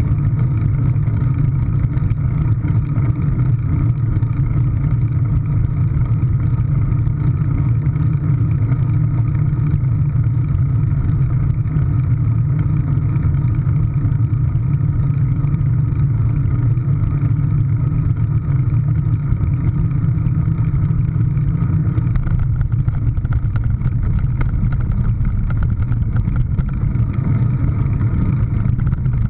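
A car engine running loud and steady with an unchanging pitch, its tone shifting slightly about 22 seconds in.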